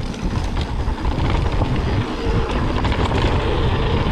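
Mountain bike riding fast down a dirt trail: wind rushing over the microphone and tyres rumbling on the ground, with many small rattles and knocks from the bike.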